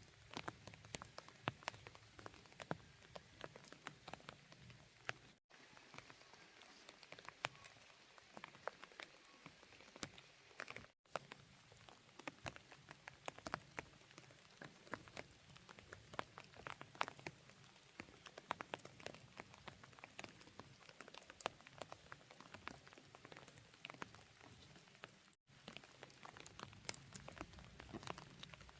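Light rain pattering: faint, irregular drops ticking on a hard surface.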